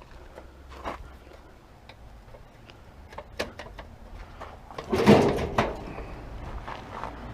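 Sheet-metal parts of an old electric stove knocking and scraping as it is pulled apart by hand, with a louder rattling scrape about five seconds in.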